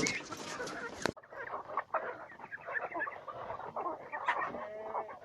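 Domestic chickens clucking, many short scattered calls from a flock, with a few longer calls about four seconds in.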